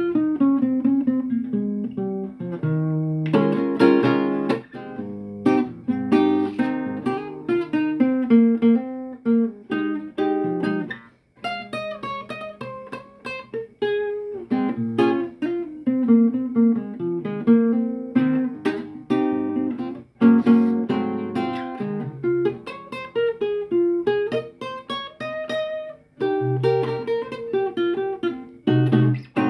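Acoustic guitar played solo as a free improvisation: picked melodic lines and chords, each note ringing and fading, with a couple of short pauses between phrases.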